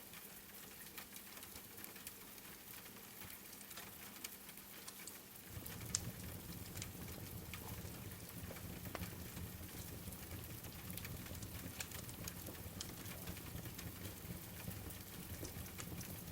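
Steady rain with the sharp, scattered crackles of a wood fire in a fireplace. About five and a half seconds in, a deeper rushing layer joins and the sound grows a little louder.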